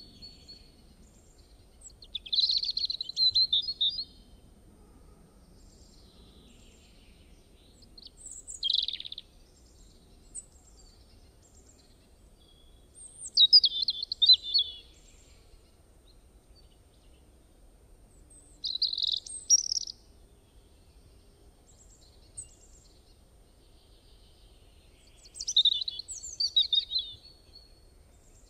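Birdsong: five short phrases of high chirping, each a second or two long, coming about every five to six seconds.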